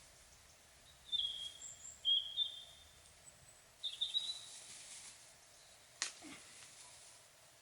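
Small bird chirping outdoors: three short, high chirps about a second apart early on, over a faint steady background. A single sharp click sounds about six seconds in.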